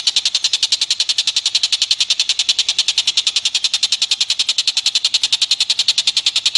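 Rapid, even chattering animal call from a masteran recording: short high-pitched notes repeated about a dozen a second without a break.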